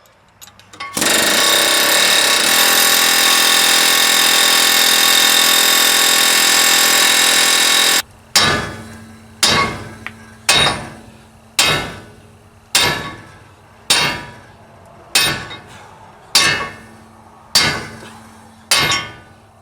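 An air hammer runs steadily for about seven seconds on a seized kingpin in a medium-duty truck's front axle, then a hammer strikes it about ten times in an even beat, just over once a second, each blow ringing on the steel.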